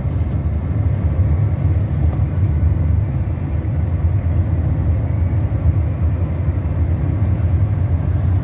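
Car driving along: a steady low rumble of road and engine noise from inside the cabin.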